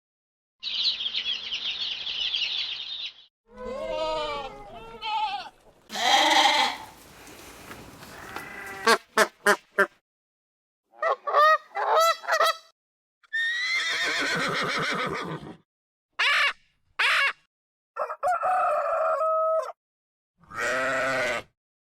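A string of separate farm-animal calls cut one after another, each a second or two long with short silences between.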